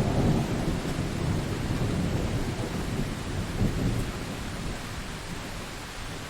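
Steady rain with a low rumble of thunder, loudest at the start and slowly dying away.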